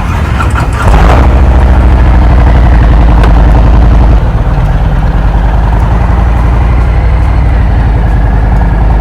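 2019 Harley-Davidson Road Glide Standard's Milwaukee-Eight V-twin running with a deep rumble. It gets louder about a second in, holds steady, then eases back a little about four seconds in.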